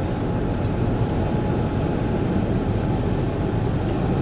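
Steady road and engine noise heard from inside a moving vehicle, heavy in the low end, with a faint steady hum over it.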